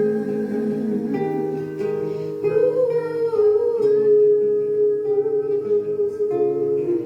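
A song performed live: a voice singing or humming long, gliding notes over plucked acoustic guitar.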